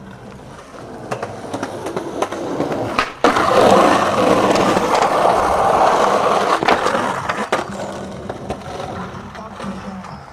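Skateboard wheels rolling over rough concrete, growing louder as the board approaches, with several sharp clacks of the board. Just after three seconds in the sound cuts out for a moment, then loud rough rolling follows for about four seconds, with two more sharp clacks, before it fades away.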